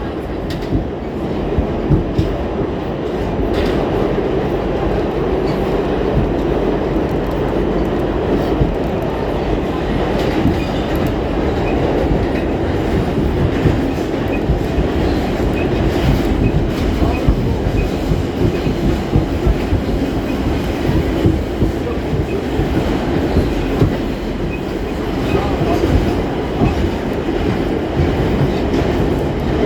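R46 subway car running along the track, heard from inside the car: a steady rumble of wheels on rail with clickety-clack and scattered knocks from the rail joints.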